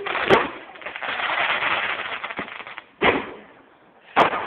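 Fireworks going off: a sharp bang just after the start, then about two and a half seconds of dense crackling, and two more sudden bangs near the end.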